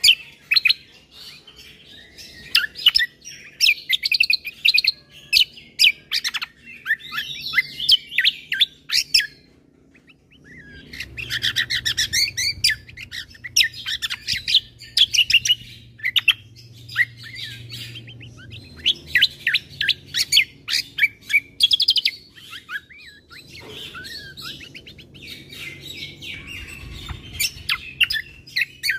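Kecial kombo (cucak kombo) songbird singing a fast, varied stream of chirps and twitters in bursts, with a short pause about ten seconds in. A faint low hum sits behind the song in the middle.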